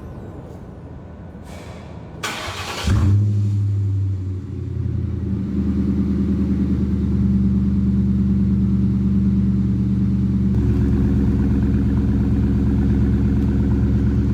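A 1999 Ford Mustang GT's 4.6-litre V8, fitted with a Borla ATAK cat-back exhaust, cold-starting. The starter cranks briefly, the engine catches about three seconds in with a loud flare, and then it settles into a steady idle whose low rumble grows heavier near the end.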